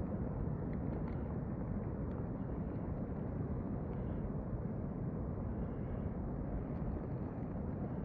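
Steady low rumble of a serac-fall avalanche, even in level throughout.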